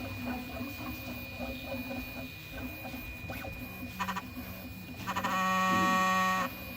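Prusa i3 MK3 3D printer running through a print with a soft whir and small ticks. About five seconds in, a loud buzzing tone with many overtones comes on for about a second and a half and stops suddenly: the weird noise the printer makes on movement during some perimeters.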